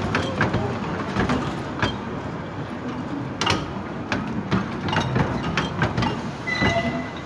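Miniature railway coaches rolling slowly past, their wheels rumbling on the track with irregular clicks and knocks over the rail joints and rattles from the open carriages.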